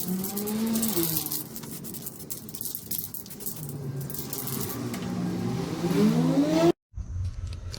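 A small motor changing speed, its pitch falling and rising, with rattling clicks over it. It stops abruptly near the end, and a steady low hum follows.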